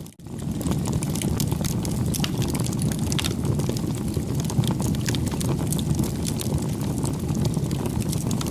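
Wood fire burning: a steady low rumble of flames with frequent small crackles and pops. The sound drops out for a split second right at the start.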